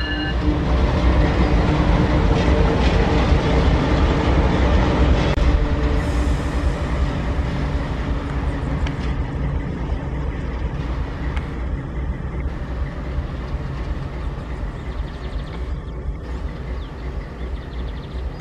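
Diesel-electric freight locomotives running past on the track, a steady heavy rumble of engines and wheels on rail that slowly fades.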